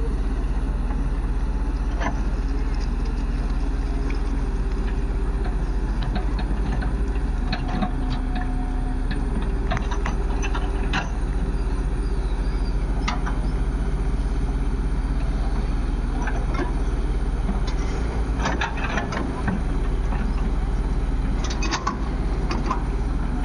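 Heavy diesel machinery running steadily with a deep rumble, with scattered clanks and knocks from loading work.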